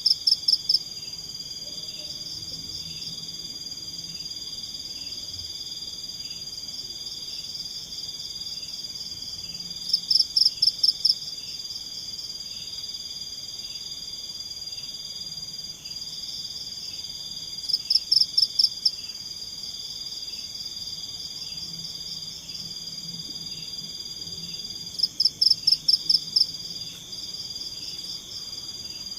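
Night chorus of forest insects and frogs: a steady high-pitched trill with a softer regular pulsing under it. Every seven or eight seconds a louder burst of rapid chirps rises over it, four times in all.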